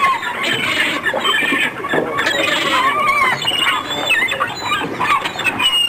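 A dense jumble of high, squealing animal cries, many overlapping with wavering pitch.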